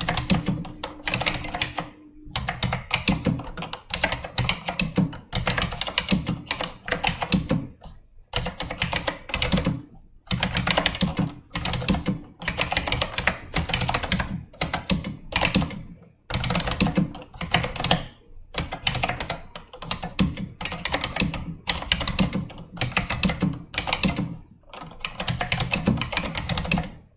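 Typing on an IBM Model M keyboard, its buckling-spring keys clicking sharply in quick runs of keystrokes with short pauses between them.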